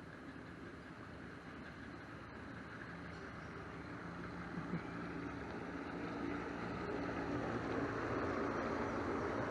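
A passing bass boat's outboard motor running steadily and growing louder, with the rush of water from its wake rising in the second half. A single short knock about halfway through.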